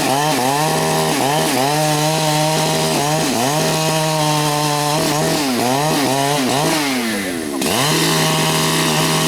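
Large Husqvarna two-stroke chainsaw cutting rain tree wood at high revs. Its engine pitch sags again and again as the chain bites under load, then climbs back. About three-quarters of the way through, the revs drop sharply and rise again.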